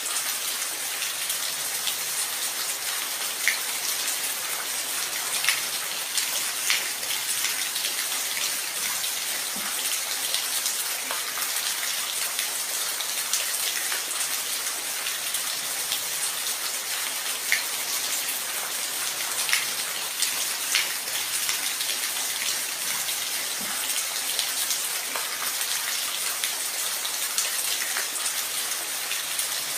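Steady rain falling, a dense hiss with individual drops striking now and then.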